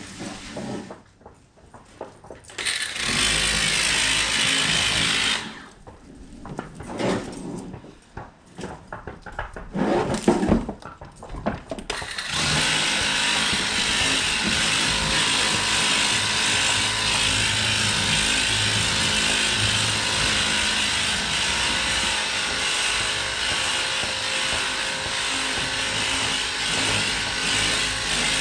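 Kobalt 600 psi battery-powered electric pressure sprayer running, its small pump motor humming under a hissing spray of water. A short burst of spray about three seconds in, a few stop-start squirts, then steady spraying from about twelve seconds on.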